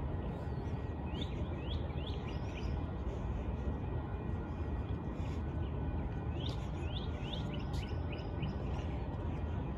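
A bird calling in short groups of rising chirps, twice, over a steady low rumble of background noise.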